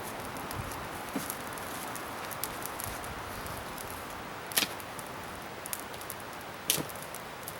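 Wood bonfire burning with a steady hiss and many small crackles, and two loud sharp pops, one past the middle and one near the end.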